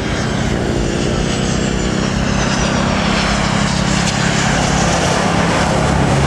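Jet airliner's engines passing close. A loud, steady rush with a low drone, and a high whine that slowly falls in pitch.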